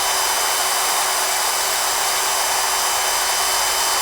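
Electric drill running at a steady speed with an abrasive sanding drum, grinding rust out of the inside of a motorbike footrest: a loud, even whine.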